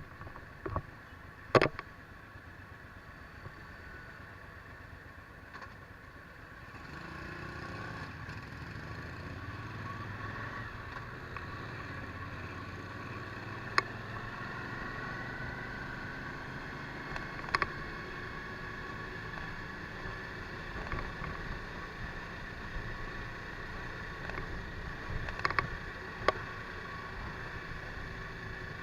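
Suzuki V-Strom DL1000 V-twin motorcycle under way, its engine and wind noise running steadily and growing louder about seven seconds in. A few sharp clicks or knocks stand out over it.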